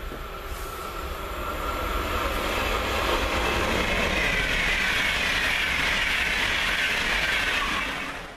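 A push-pull Intercity passenger train, cab car leading and locomotive at the rear, passing through at speed. The rolling noise of wheels on rail builds over the first couple of seconds, holds steady while the coaches go by, and eases slightly near the end.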